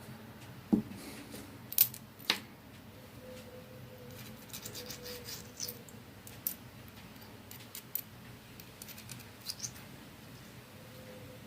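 Small metal clicks and knocks from a hand-operated jar-lid seaming key being handled and worked. There are three sharp knocks in the first couple of seconds, then lighter scattered clicks.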